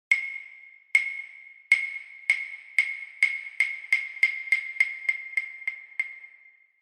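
Wooden kabuki clappers (hyoshigi) struck together in an accelerating run: about fifteen sharp, ringing clacks that start about a second apart and speed up to about three a second, then one last clack at the end. This quickening pattern is the kabuki signal for the curtain opening.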